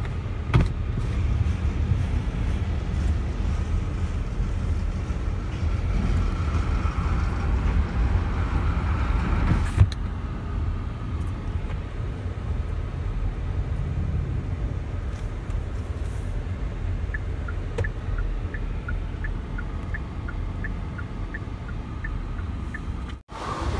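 Freight train crossing an elevated steel railway bridge overhead, a steady low rumble with a few knocks, heard from a car waiting underneath among traffic. Over the last several seconds a steady ticking runs at about two to three ticks a second, the ticks alternating slightly in pitch.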